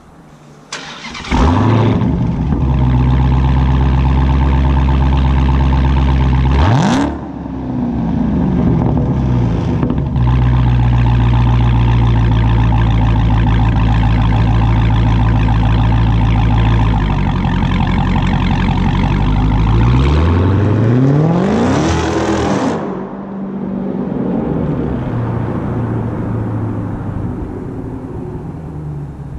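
Warm start of a Dodge Charger Hellcat's supercharged 6.2-litre Hemi V8 on its stock exhaust: it fires about a second in and settles into a loud, lumpy idle. It gives one quick sharp rev, idles again, then makes a longer rev that climbs and falls back, the supercharger whining up with the revs. Near the end the engine sound fades steadily as the car pulls away.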